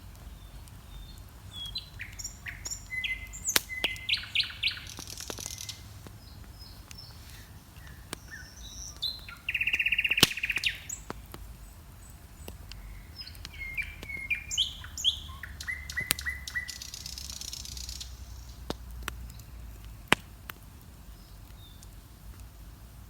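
Dawn chorus of several songbirds singing and chirping in short repeated phrases, with one loud buzzy trill near the middle. A bonfire crackles underneath, giving several sharp pops.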